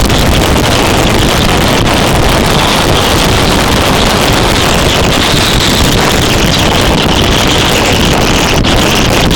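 Motorcycle being ridden, with steady loud wind rushing over the microphone mixed with engine and road noise.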